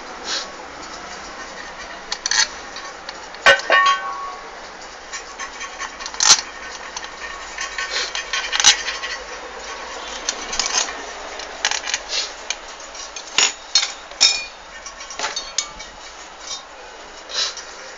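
Irregular metal clinks, taps and knocks of hand tools and motorcycle engine parts being handled, about a dozen sharp clicks spaced unevenly, some ringing briefly. The engine is not running.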